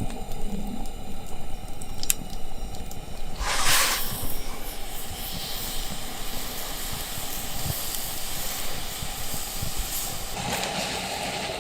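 Beef sizzling on a hot grill over a campfire, with small crackles throughout. A loud hiss flares up about three and a half seconds in, then settles into a steady sizzle.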